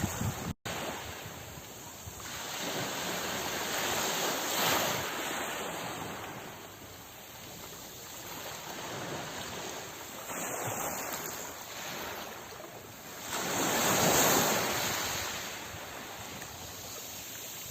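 Sea waves breaking and washing ashore, the noise swelling and easing in slow surges, with the biggest surge about three-quarters of the way through. A momentary dropout cuts the sound just after the start.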